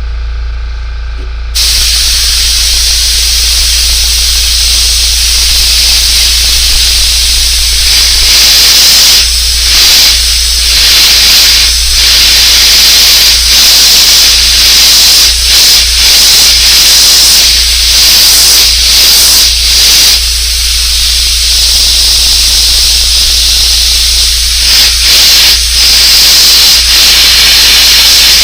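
Airbrush spraying paint onto a fishing lure: a loud, steady hiss of air and paint that starts about one and a half seconds in and keeps going, broken by several brief pauses.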